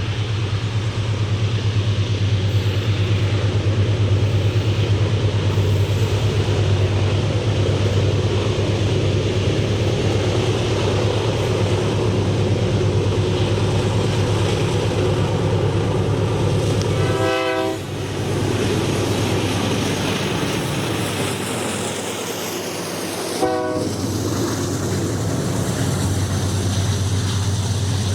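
Diesel freight train running past with a steady low engine drone. Its horn sounds two short blasts, about six seconds apart, in the second half.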